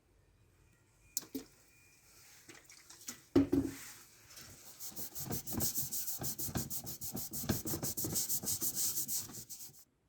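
Rapid back-and-forth abrasive scrubbing by hand on the heater's metal, about eight strokes a second for some five seconds, stripping the old paint. A single loud knock comes a little after three seconds in, before the scrubbing starts.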